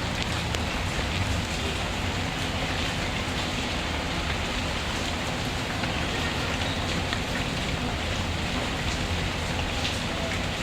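Steady rain falling, an even hiss with a low rumble underneath and a few faint scattered clicks.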